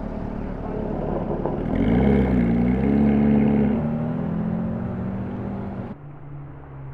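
A supercar's engine revving as it drives past. Its pitch rises about two seconds in and it is loudest in the middle. Near the end it cuts off abruptly to a lower, steady engine hum.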